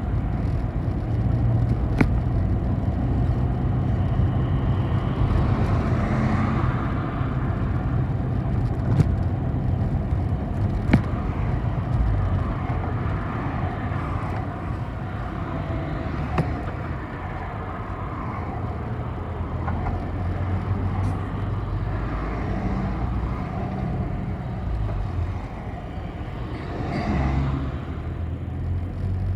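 City bus running, heard from inside the cabin: a steady engine drone under road noise, its pitch shifting as the bus speeds up and slows down. A few sharp clicks from the cabin cut through.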